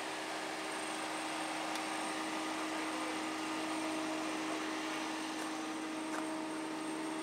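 An engine idling with a steady rush of fan air: a constant low hum under an even hiss that does not change.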